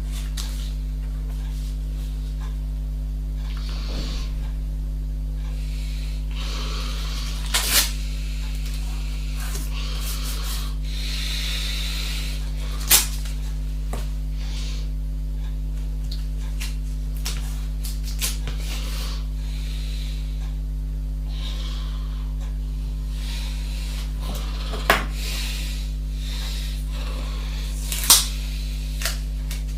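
Steady low electrical hum with a few sharp clicks and knocks scattered through it, and stretches of soft rustling between them.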